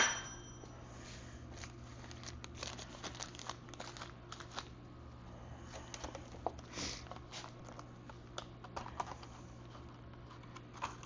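Motorcycle front-wheel parts being handled on a workbench: a sharp clink at the start that rings briefly, then scattered light clicks, taps and rustling as the parts are moved about. A low steady hum sits under it all.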